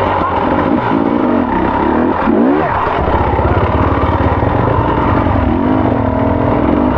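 Off-road motorcycle engine running under way, its revs rising and falling, with a quick rev-up a little over two seconds in.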